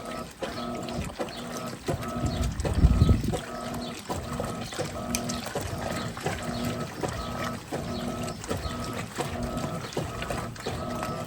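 Electrolux Turbo Capacidade Premium 15 kg (LTP15) top-loading washer agitating a load of clothes with an LPR16-style agitator. The motor hums in short strokes, about one and a half a second, as the agitator swings back and forth, with water sloshing in the tub.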